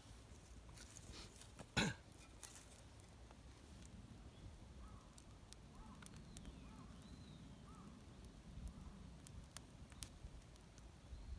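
Faint outdoor quiet with one sharp click about two seconds in, scattered light ticks, and a few short, faint chirps in the middle.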